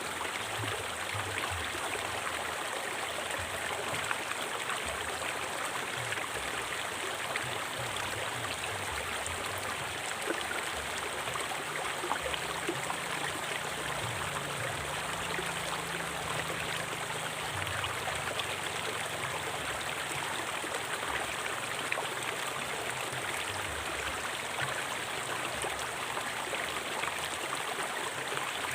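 A forest river flowing steadily over rocks: a continuous splashing rush with a low rumble underneath that swells a little partway through.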